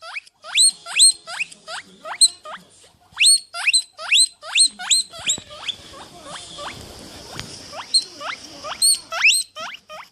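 An animal making a rapid series of short, high squeaks that each sweep sharply upward in pitch, several a second and in bursts, thinning out into a hissy stretch about two-thirds of the way through.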